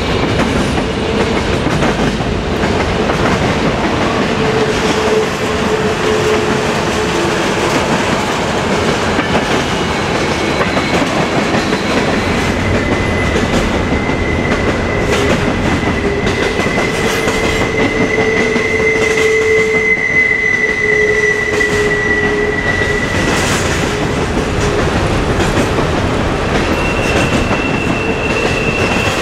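Railroad cars rolling steadily through a sharp curve, a continuous rumble and clatter of wheels on rail, with wheel flanges squealing against the rail. One long high squeal holds through the middle, and lower squeals come and go.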